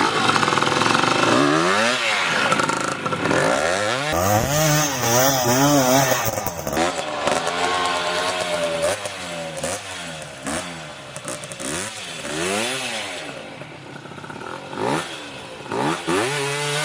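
Off-road trail motorcycle engine revving, its pitch climbing and dropping again and again as the throttle is worked, with occasional knocks.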